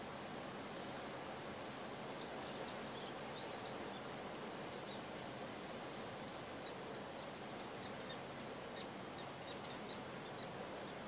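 Steady wind noise with a songbird's rapid high chirps: a busy run of them about two seconds in, then fainter scattered chirps later on.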